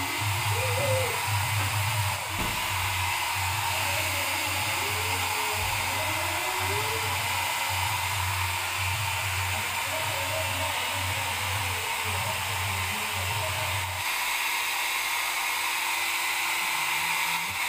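Handheld hair dryer blowing steadily, a constant airy hiss. Music from a nearby wedding plays underneath, with a pulsing bass beat that stops about fourteen seconds in.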